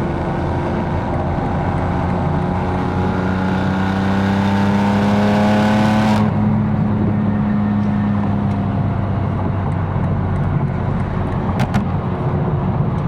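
Tuned BMW M4's twin-turbo straight-six pulling hard under acceleration, its pitch rising for about six seconds before cutting off suddenly on a lift or shift. It then settles to steadier running, with a few sharp clicks near the end.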